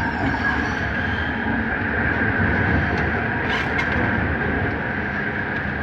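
A Bombardier Innovia Metro 300 train running, heard from inside the car: a steady rumble from the running gear with a steady high whine over it, and a few faint ticks about three and a half seconds in.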